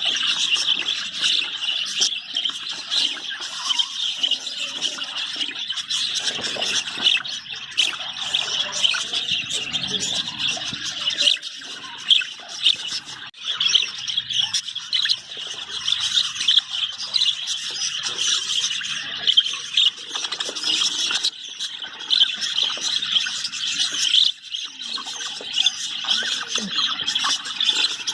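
Budgerigars chirping and squealing continuously, many high calls overlapping with no pause.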